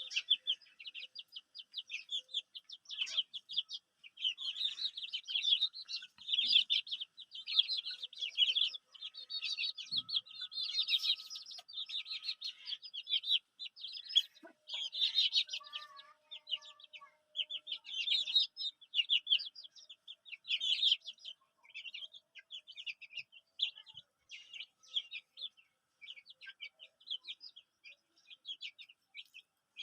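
Many chicken chicks peeping at once: a dense, ongoing chatter of rapid high cheeps, each cheep a quick downward slide.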